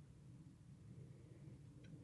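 Near silence: a faint steady low hum, with one small faint click near the end.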